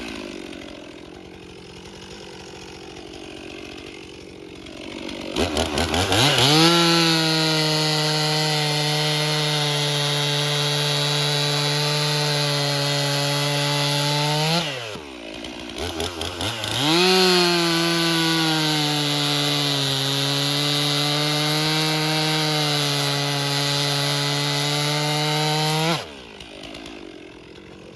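Stihl MS 362 C two-stroke chainsaw idling, then revved to full throttle to cut through an oak log, about eight seconds in the cut. It drops briefly to idle, then revs and makes a second cut of about nine seconds before falling back to idle near the end.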